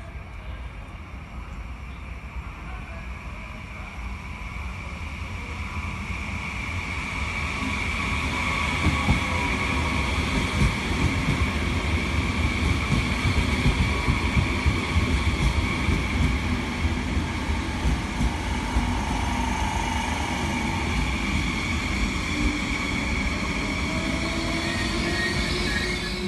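Train running along the track, growing louder over the first several seconds and then staying loud, with wheel rumble and clatter under a steady high whine.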